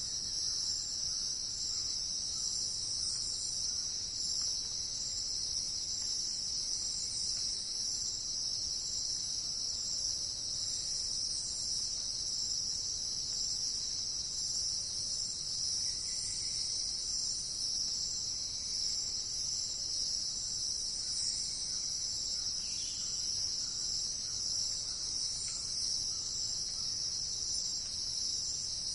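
A steady, high-pitched chorus of insects trilling without a break, with a few faint bird chirps about halfway through and again later.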